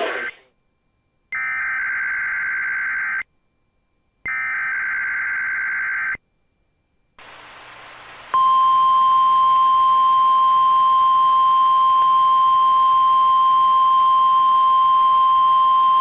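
NOAA Weather Radio weekly test heard through a radio receiver. Two bursts of the SAME digital header sound as harsh warbling data tones, each nearly two seconds long and separated by a short silence. After a brief hiss, the loud, steady 1050 Hz warning alarm tone starts about eight seconds in.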